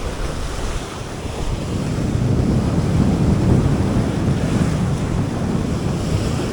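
Strong sea wind buffeting the microphone over waves washing in, a steady rumbling rush that swells louder in the middle and eases a little toward the end.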